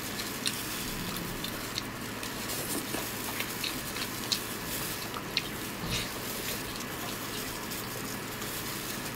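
Close-up eating sounds of seafood being chewed, with scattered short mouth clicks over a steady background hiss.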